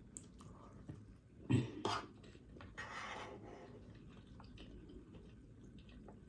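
Faint mouth sounds of chewing sautéed cabbage, with two soft knocks about a second and a half in and a short hiss around the three-second mark.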